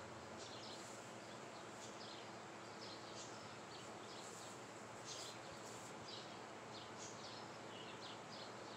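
Small birds chirping, short high calls coming again and again over a faint steady background hiss.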